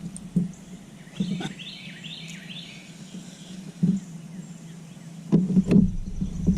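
A bird gives a quick run of five or six short, falling chirps a little over a second in, over a steady low hum. Dull knocks come at intervals, with a louder cluster near the end.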